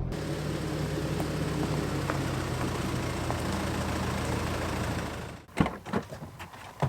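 A vehicle engine idling steadily, then switched off about five and a half seconds in, followed by a few sharp clicks and knocks.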